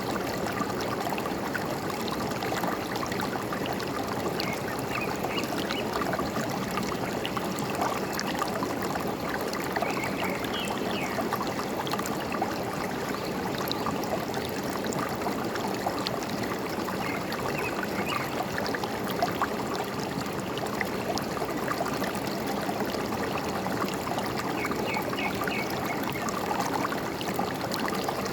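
Forest stream flowing steadily, a continuous rush and trickle of water. A small bird chirps in short bursts four times.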